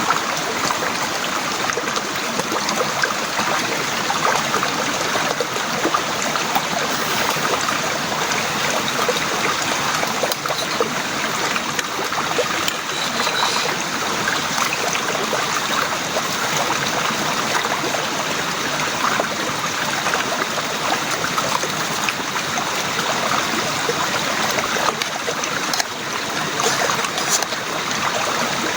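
Heavy rain falling steadily: a dense, even hiss of many small drops.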